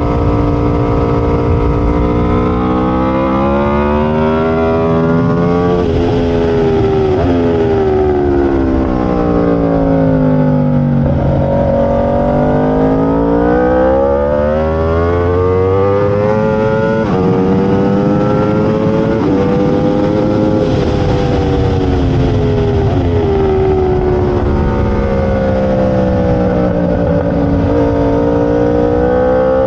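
A race-motorcycle V4 engine, the Aprilia RSV4, pulling hard on track: it revs up through the gears with a quick drop in pitch at each upshift, then winds down in long falls under braking before climbing again.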